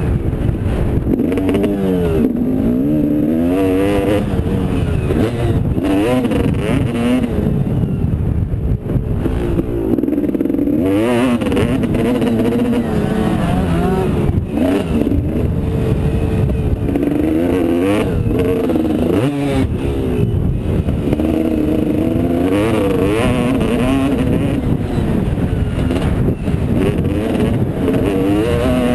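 Motocross motorcycle engines revving up and down again and again as the bikes accelerate and shift, with the pitch climbing and dropping every second or two.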